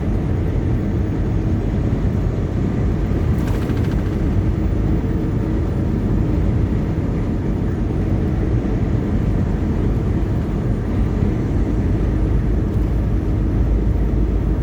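Steady engine and road noise heard inside a semi-truck's cab while driving.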